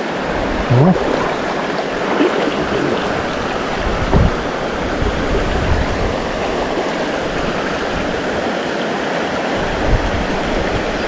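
Small mountain stream rushing and babbling steadily over rocks close by, with a few brief low bumps.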